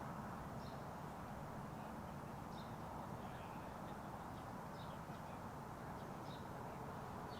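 Outdoor background hum with short high bird chirps every second or two.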